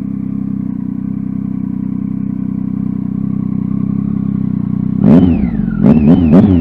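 Triumph Tiger XCx's three-cylinder engine idling steadily through an aftermarket Danmoto exhaust, then revved in quick throttle blips: one about five seconds in and a couple more near the end.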